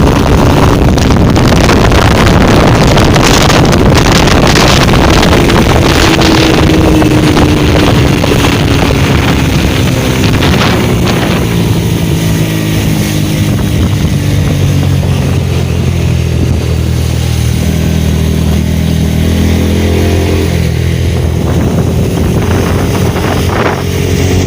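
Motorcycle engine running at road speed with heavy wind rush on the microphone. The engine note slowly falls in pitch, and about halfway through the wind rush eases off.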